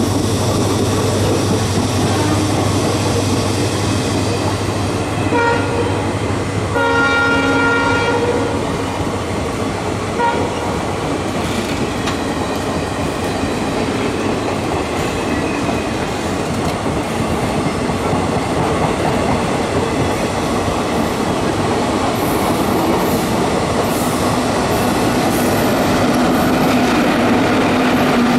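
Express train's coaches running past with a steady rolling noise. A train horn sounds a short blast about five seconds in, then a longer one, and a brief toot about ten seconds in. Near the end the electric banker locomotive pushing at the rear comes by with a steady hum.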